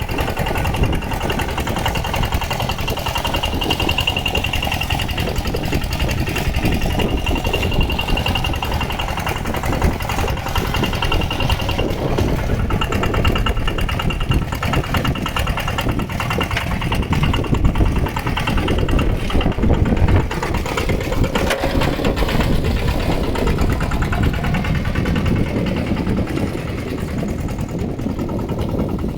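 Mini tractor's engine running steadily while plowing a flooded, muddy rice field, with a thin high whine over it for much of the first twenty seconds.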